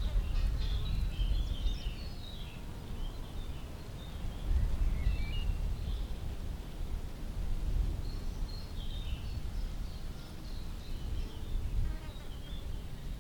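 Small birds singing in short chirps and trills, on and off throughout, over a louder low rumble that swells and fades.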